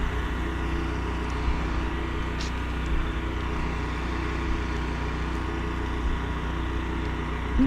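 Pressure-washing rig's engine and pump running at a steady pitch, with the hiss of the spray gun over it; the sound cuts off abruptly near the end.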